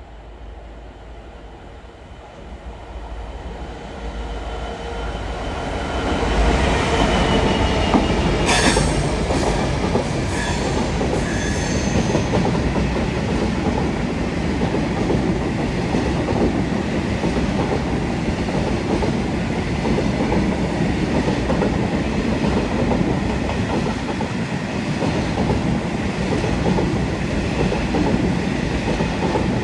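Class 66 diesel-electric freight locomotive approaching and passing, its two-stroke EMD V12 building up over the first six seconds. Its train of wagons then rolls past in a long steady rumble of wheels on rail, with a few sharp clanks about eight to eleven seconds in.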